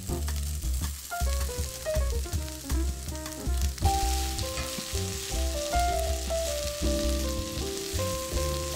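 Bell pepper strips sizzling in hot oil in a cast-iron skillet as they are tipped in and stirred with a wooden spatula; the sizzle grows stronger about four seconds in. Background music with melody and bass plays under it.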